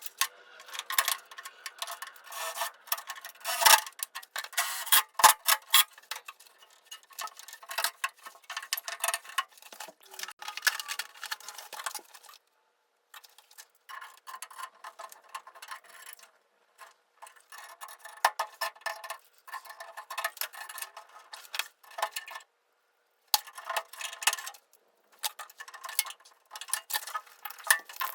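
Rapid, irregular clicking and light knocking of hand work on plumbing pipes and fittings, stopping briefly a few times.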